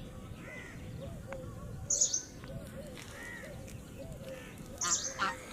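Birds calling: two sharp, very high-pitched chirps, about two seconds in and near the end, with softer, lower calls in between.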